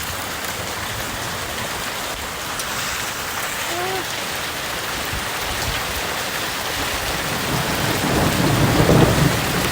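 A storm of small hail mixed with rain, falling steadily: a dense hiss of ice pellets and drops striking the ground and surfaces. It grows louder and heavier near the end.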